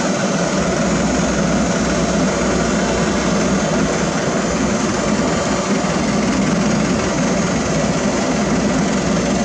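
Heavy diesel construction machinery running steadily: the engines of asphalt paving equipment at work.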